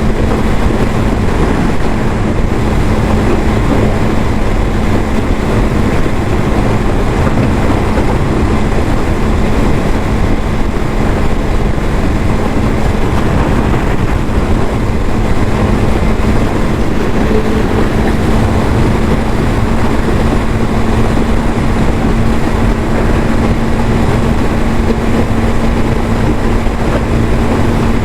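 Yamaha YZF-R6 inline-four with the stock exhaust, running at a steady engine speed with no revs up or down, under a loud, even rushing noise.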